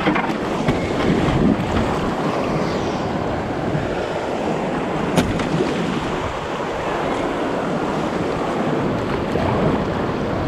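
Waves washing and breaking around a kayak, with wind buffeting the microphone; a single sharp click about five seconds in.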